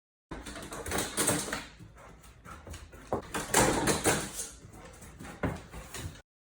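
A Dutch Shepherd whining in several bursts, loudest about a second in and again around three and a half to four seconds.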